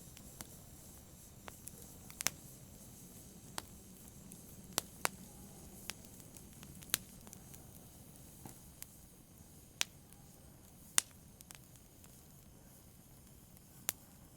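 Wood fire in a fireplace crackling: sharp, irregular pops about once a second over a soft, steady rush of burning.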